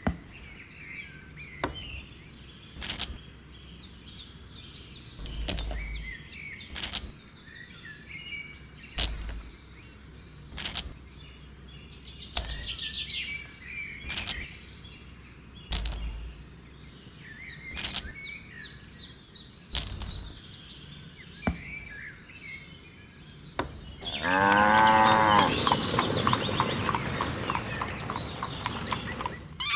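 Sharp knocks every second or two, with a few low thuds and faint bird chirps behind them. About 24 seconds in, a long, loud animal call, like a cow lowing, stands over the rest.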